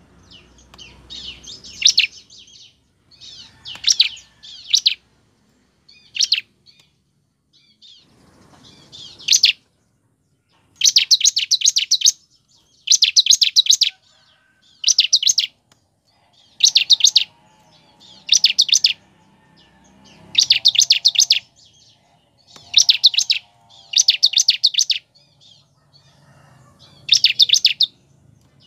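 Bar-winged prinia (ciblek) calling in short bursts of rapid, sharp, high-pitched notes, each burst about a second long and repeated every one to two seconds. This is the fast rattling 'ngebren' call used as a lure to get caged ciblek singing.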